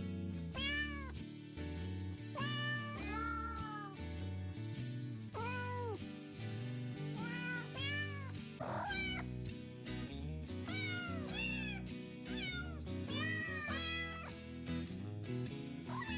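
A cat meowing over and over, a dozen or so short rising-and-falling meows, over background music with a steady beat.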